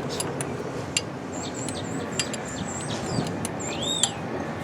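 Small birds chirping in a quick series of high notes, then one rising-and-falling call, with a few sharp metallic clicks of hand tools over a steady low background noise.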